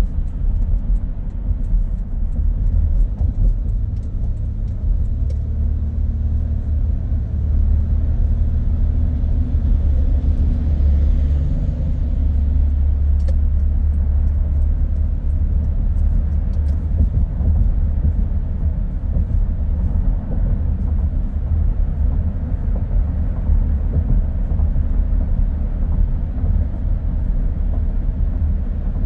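Car driving on a road: a steady low rumble of engine and tyre noise, swelling slightly for a few seconds before easing back near the middle.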